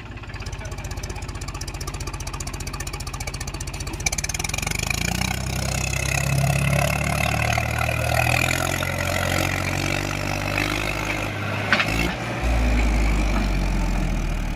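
Mahindra tractor's diesel engine running, then revving up about four seconds in and labouring under load on a climb. A sharp knock comes just before twelve seconds, followed by a deeper, louder run.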